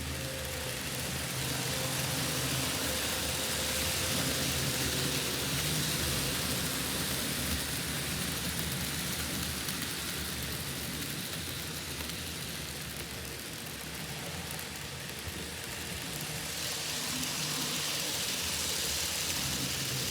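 N scale model trains running on the layout: a steady small electric motor hum with an even hiss of wheels on the track, swelling and easing slowly as the trains go round.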